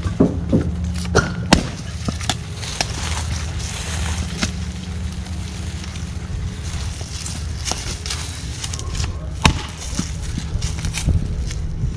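An engine idling steadily at low speed, with scattered sharp knocks, two of them loud: one about a second and a half in and one near the end.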